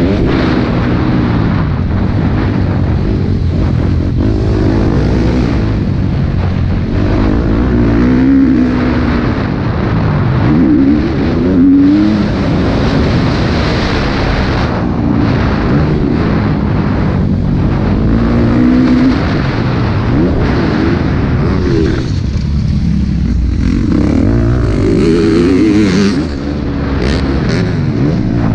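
KTM 250 SX-F four-stroke single-cylinder motocross bike engine running hard on a lap, its pitch rising and falling over and over as the throttle is opened and closed through the turns and jumps. The engine note drops off briefly a little over two-thirds of the way in, then picks up again.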